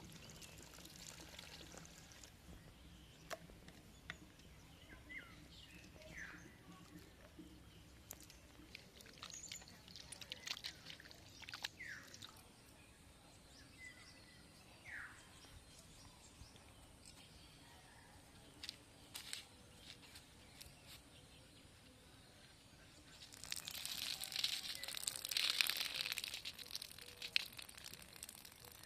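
Quiet outdoor ambience with scattered short bird chirps and light clicks of handling. About 23 seconds in, a few seconds of rough scraping noise become the loudest sound.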